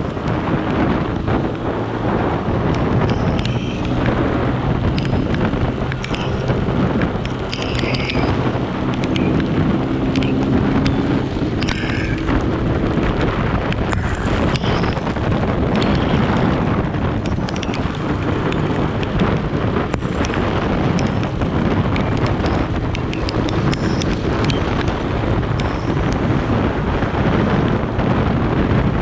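Heavy wind buffeting the microphone on a moving motorcycle, with the engine running steadily underneath and its pitch shifting briefly partway through.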